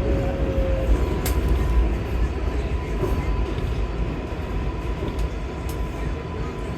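Inside a moving 7-line subway train of R188 cars: a steady low rumble of the car running through the tunnel, with a few faint clicks and a thin steady whine, the noise easing off slightly as the train nears the next station.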